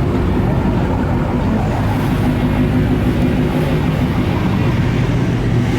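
Car engine running steadily with a low rumble, holding an even pitch.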